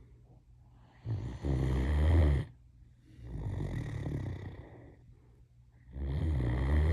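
Great Dane snoring in its sleep: two loud, deep snores, one about a second in and another near the end, with a quieter breath between them.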